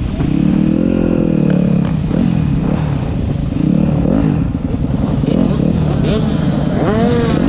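Motocross bike engine running hard, its pitch rising and falling with the throttle and gear changes, with a few quick revs near the end.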